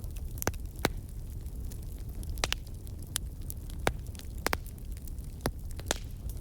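Wood fire in a fireplace crackling: about ten sharp, irregular pops over a steady low rumble.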